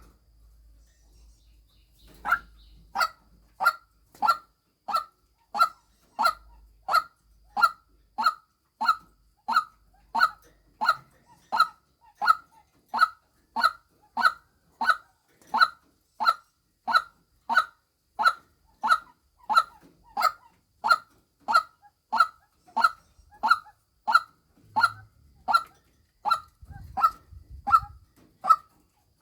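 White-breasted waterhen's female call, a short pitched note repeated at an even pace of about three calls every two seconds, starting about two seconds in. It is the female call used as a lure for waterhens.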